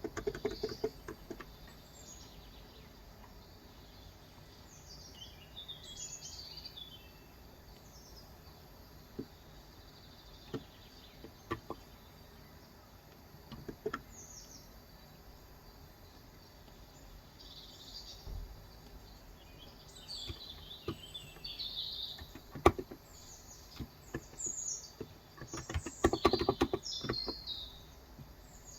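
Birds chirping and singing throughout, with bursts of typing on a Cox Endeavour electrostatic capacitive keyboard with 35 g switches: a short flurry at the start, a few single keystrokes in the middle, and a longer, louder run near the end.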